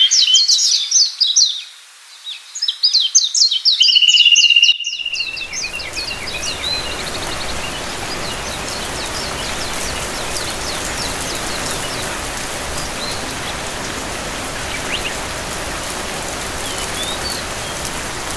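Birds chirping in rapid quick-falling notes, with one held whistle-like note, for about five seconds; then a sudden cut to steady rain with a few faint chirps through it.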